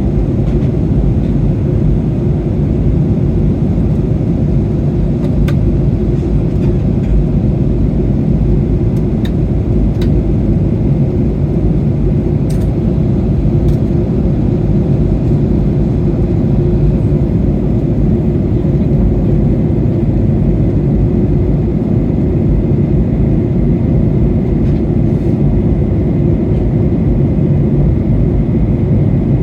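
Steady cabin noise inside a Boeing 737-800 airliner in flight: a loud, even rumble of airflow and its CFM56 turbofan engines, mostly low in pitch, with a few faint clicks.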